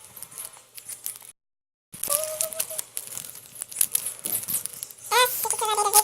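Candy wrapper being torn open and crinkled, a crackle of small sharp clicks, broken by a short dead gap about a second in. Near the end a brief pitched voice sound, like a hum, comes over the crinkling.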